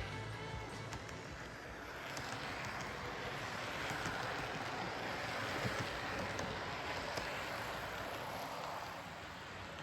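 H0-scale model train running on the layout track: a steady rolling rumble and rattle that swells toward the middle and fades toward the end.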